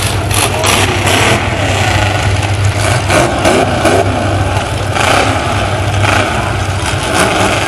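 Engines of a field of demolition derby trucks running together: a steady low rumble with revs now and then.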